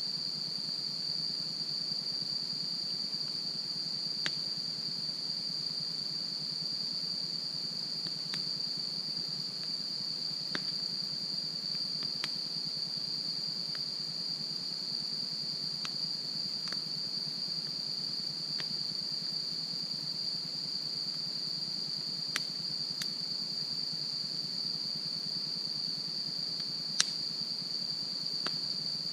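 Wood campfire crackling with scattered sharp pops, one louder snap near the end, over a steady high-pitched chorus of insects.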